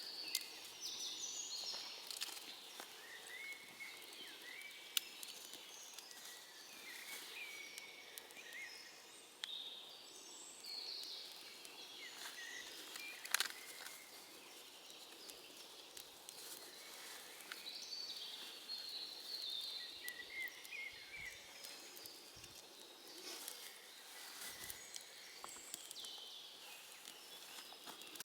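Faint forest ambience with small birds chirping and singing in short repeated phrases throughout. A few sharp cracks stand out, the loudest about 13 seconds in.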